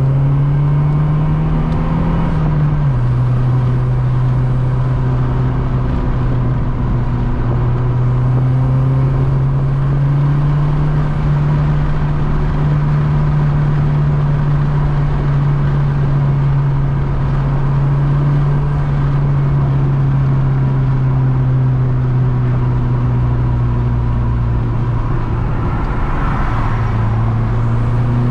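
Mazdaspeed 3's turbocharged 2.3-litre four-cylinder engine running hard under load. The revs drop sharply about three seconds in, then build slowly for about ten seconds and ease off gradually. They dip sharply again near the end and climb once more.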